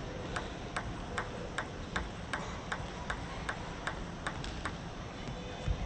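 Table tennis ball clicking in an even rhythm, about two and a half hits a second, stopping a little past the middle, with a low thump near the end.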